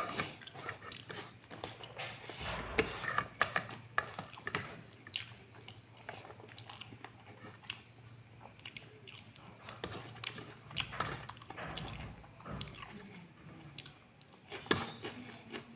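Close-up eating sounds: a person chewing and smacking on pork and rice, with irregular small clicks as fingers mix and scoop rice on a steel plate. A faint steady hum runs underneath.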